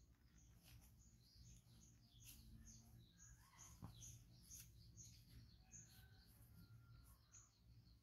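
Near silence, with a bird chirping faintly: short high chirps repeating a couple of times a second.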